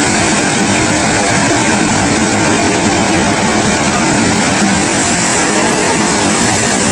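A loud, steady rushing noise with no breaks.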